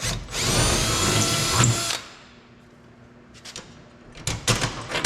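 Power drill with a 3/16 bit running for about a second and a half, drilling a hole through a sheet-metal cab panel, followed by a few light clicks and knocks.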